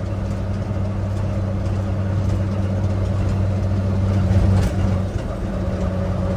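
1953 Chevrolet 6100 truck's straight-six petrol engine running steadily on the move, growing slightly louder over the few seconds, with a brief dip about five seconds in.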